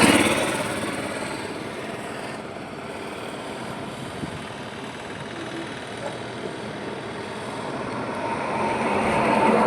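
Highway traffic. A vehicle passing at the start fades away over the first second or two, then comes steady road noise, and another vehicle approaches, getting louder toward the end.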